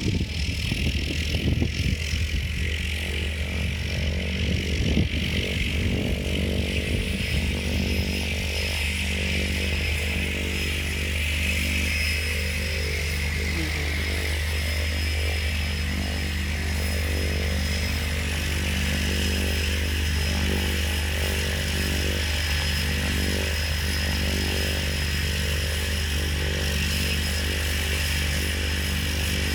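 Cessna 208 Caravan's Pratt & Whitney PT6A turboprop running steadily on the ground: a low propeller drone with a high turbine whine over it, somewhat rougher in the first several seconds.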